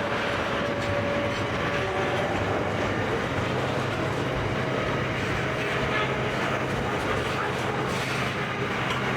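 Container train rolling past, wheels clacking over the rails with faint squeals, over a steady low hum that grows a little stronger about three seconds in.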